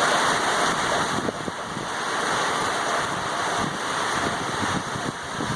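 Hurricane wind and rain: a loud, steady rush of wind-driven rain that swells and eases a little with the gusts, with scattered spatters and knocks.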